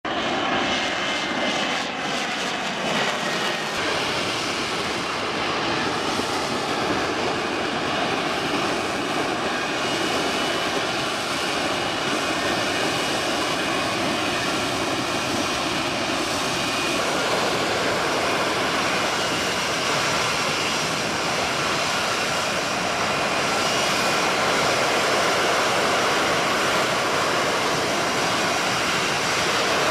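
F-35B jet engine running loud and steady: a dense jet noise with faint whining tones on top, a few of them sliding down in pitch over the first few seconds, the level rising slightly near the end.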